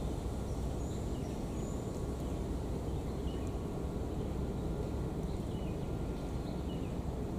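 Steady low rumble of wind, with a few faint, short high-pitched bird chirps scattered through it.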